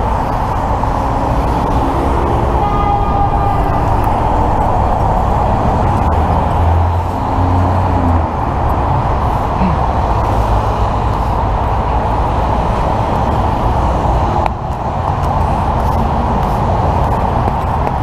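Steady freeway traffic noise: vehicles passing with engine and tyre rumble, and a brief pitched tone about three seconds in.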